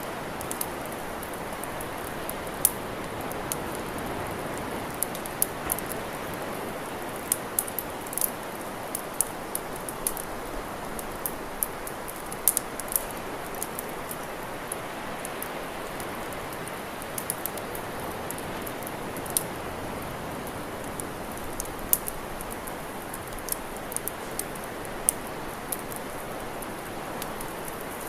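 Wood campfire crackling, with sharp irregular pops and snaps every second or so over a steady rushing hiss.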